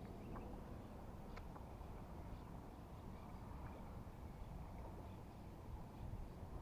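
Quiet open-air ambience on a lake: a steady low rumble with a few faint, sharp clicks or ticks scattered through it.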